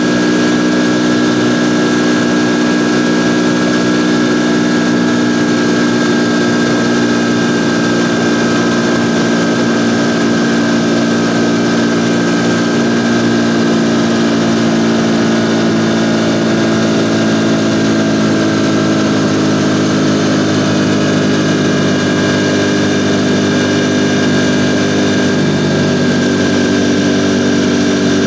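Ducati Panigale V4 motorcycle's V4 engine running steadily at a near-constant speed, its pitch drifting only slightly.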